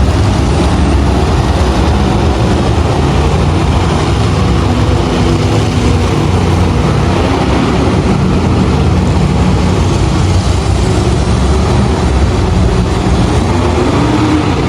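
Monster truck engine running loud and steady in an arena, a deep continuous drone with a dense noisy wash above it.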